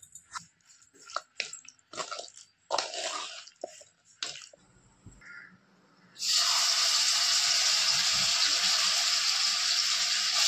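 Marinated chicken pieces dropped into hot oil in a non-stick kadai, starting a loud, steady sizzle abruptly about six seconds in. Before that, scattered short wet squelches and scrapes.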